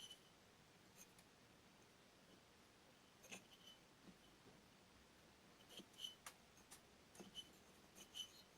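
Faint, scattered small clicks and ticks, more of them in the second half: a length of mower pull-start cord being fed by hand into a four-stroke engine's spark-plug hole to stop the piston.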